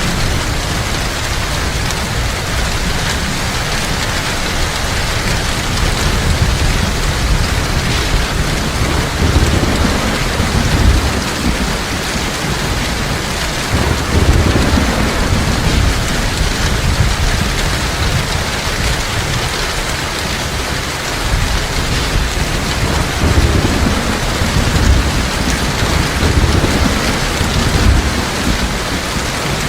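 Heavy rain falling in a steady dense hiss, with low rolls of thunder swelling and fading several times.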